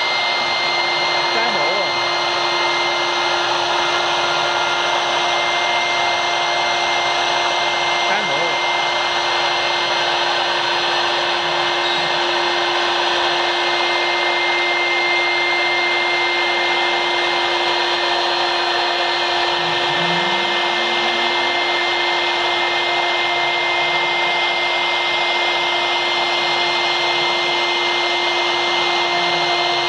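CNC router spindle running steadily at a constant high pitch over an even hiss, machining aluminium composite panel.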